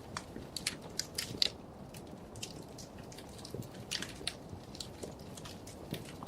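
Wood fire in a fireplace crackling: irregular sharp pops and snaps over a low steady hiss of the burning logs.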